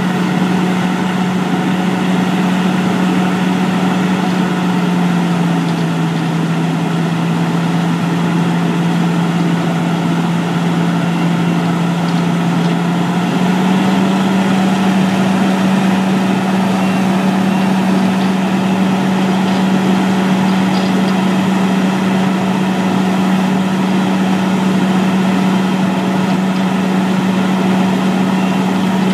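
An engine running steadily with a constant hum. Its pitch drops slightly about five seconds in and rises a little about halfway through.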